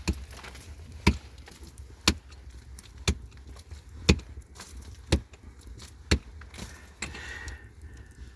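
A hand tool striking hard ground or rock in an even rhythm, about once a second, seven blows that stop about two-thirds of the way through.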